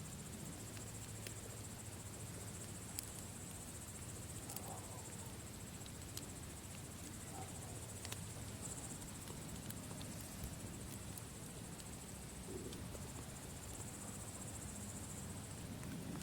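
Campfire crackling, with scattered sharp pops, over a steady high chirring of crickets.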